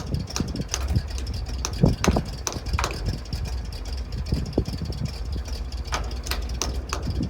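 1971 International truck engine idling steadily, with irregular sharp clicks scattered over the running.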